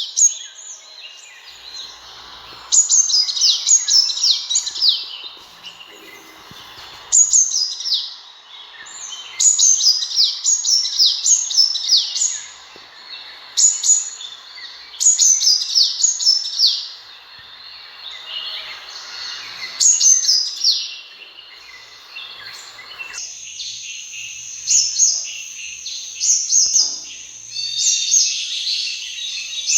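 Sunbird calling: bursts of quick, high, downward-slurred chirps, each burst lasting a second or two and repeated every few seconds. About three-quarters of the way through, the background hiss drops and the chirps go on over a thin, steady high whistle.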